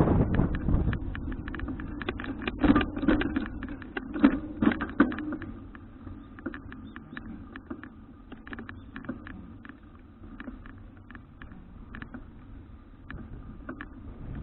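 Folding bicycle being ridden: wind noise on the microphone dies down over the first couple of seconds, leaving irregular light clicks and rattles from the bike, with a few louder knocks in the first five seconds.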